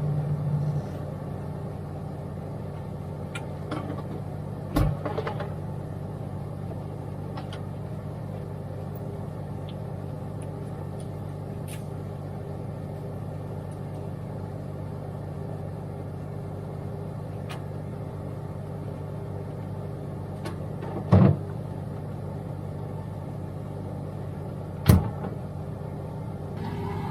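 Freightliner semi's Detroit DD13 diesel engine idling steadily, heard from inside the cab. Three sharp knocks stand out, about five seconds in and twice near the end.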